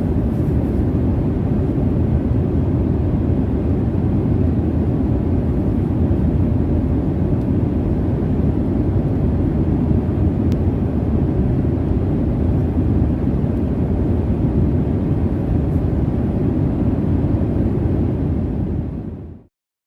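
Steady low jet-airliner cabin drone heard from inside the cabin in flight, an even deep rumbling hiss, fading out quickly near the end.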